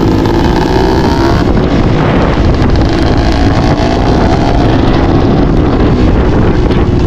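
Dirt bike engine running under changing throttle, its pitch rising and falling, with wind noise on the microphone.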